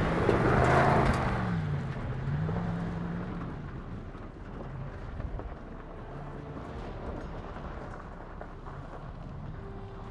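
Pickup truck engine revving up and down as the truck does donuts off-road, with a loud rush of tyre noise that peaks about a second in and dies away by two seconds. The engine then settles to a quieter, steadier run.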